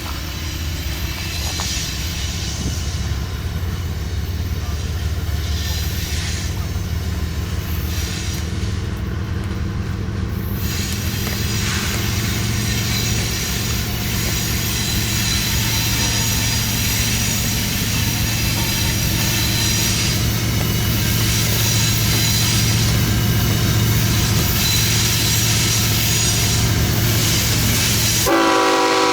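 Diesel freight train running on the line, its locomotive engines rumbling low and steady and slowly getting louder, with steel wheels on rail and a thin high squeal. Near the end the locomotive's air horn starts to sound.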